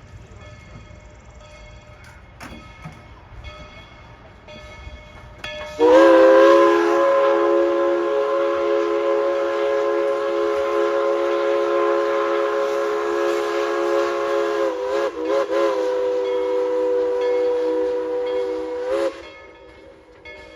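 Steam locomotive No. 190's chime whistle blown in one long blast of about thirteen seconds, several tones sounding at once. It starts suddenly, wavers briefly twice near the end, then cuts off.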